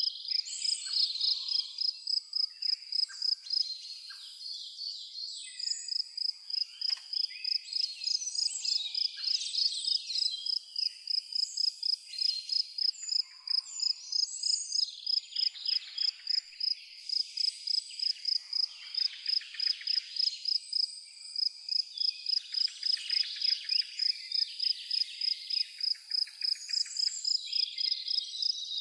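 A cricket chirping steadily in a high, even pulse about three times a second, while several birds sing and call over it with varied chirps and warbles.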